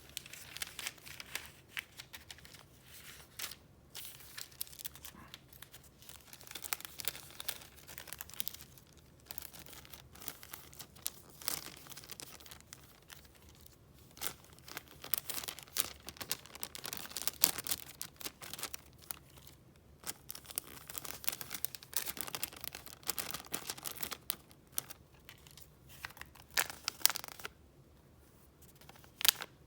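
Paper items being handled and flipped through close to the microphone: irregular runs of rustling and crinkling paper, with brief pauses between handlings.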